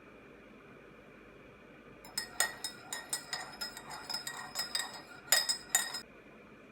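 A metal spoon clinking repeatedly against a cup, each strike ringing at the same pitch, for about four seconds starting about two seconds in.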